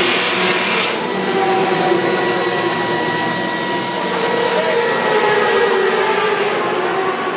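Loud, steady din of racing motorcycle engines, a thick noise with a few engine tones wavering through it; the highest part of the noise falls away about six seconds in.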